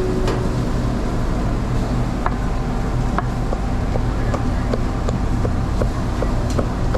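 Kitchen knife slicing through grilled teriyaki chicken on a cutting board: a few scattered knocks, then a regular chopping rhythm of about three cuts a second in the second half, over a steady low mechanical hum.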